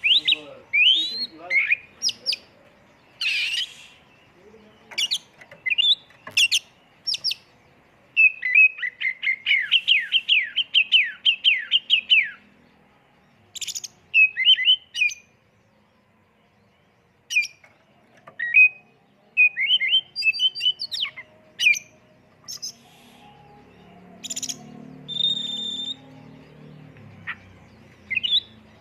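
Oriental magpie-robin (kacer) singing a varied song of loud whistles and chirps, packed with fill-in phrases imitating other birds. About eight seconds in comes a fast run of repeated falling notes lasting some four seconds.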